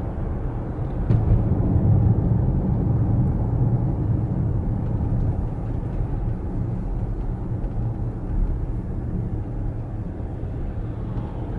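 Car driving: a steady low road rumble, a little louder for a few seconds starting about a second in.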